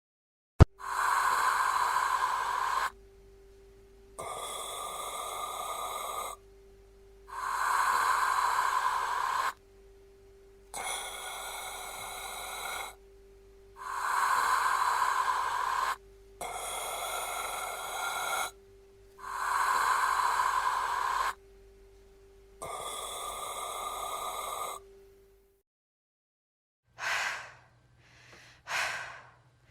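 A person breathing slowly and deeply: about four long breath cycles, each a louder breath of two to three seconds followed by a softer one, with a faint steady hum beneath. Near the end, after a short pause, a few short, quick breaths follow.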